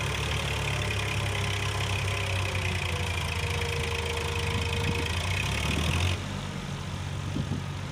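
Heavy diesel engine running steadily with a deep hum, dropping in level about six seconds in.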